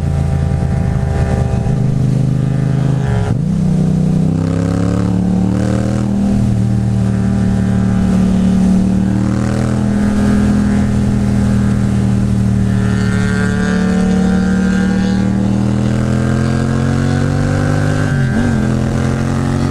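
Yamaha MT-07's 689 cc parallel-twin engine running through an Akrapovič exhaust while riding on the road. The engine note has a deep tone and climbs slowly in pitch, with a brief dip in revs about three seconds in and again near the end.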